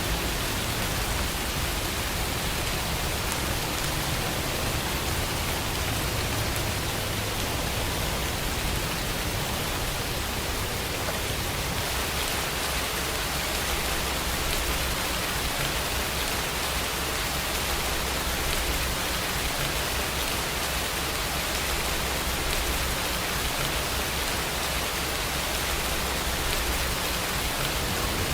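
Steady heavy rainfall, an even hiss with a low rumble beneath it.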